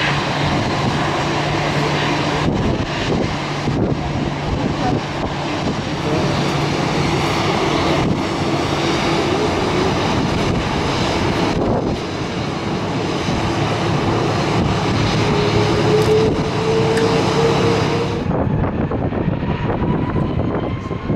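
Jet airliner engines running loudly, mixed with gusty wind buffeting the microphone. A steady engine whine climbs slowly in pitch near the end. Shortly before the end the sound changes abruptly to a quieter, higher engine whine.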